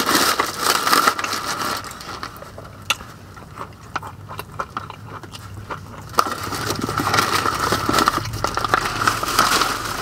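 Close-up chewing of a KFC Double Down, its fried chicken breading crunching, picked up by a clip-on mic. Louder in the first two seconds and again from about six seconds in, with small clicks in the quieter stretch between.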